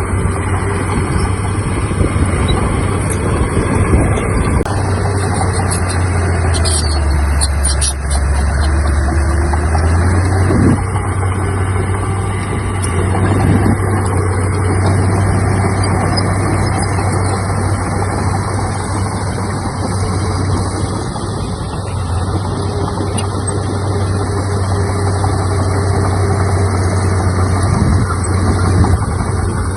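Heavy diesel earthmoving machinery running steadily with a deep engine hum. The engine note sags lower for a few seconds about a quarter of the way in, then picks back up.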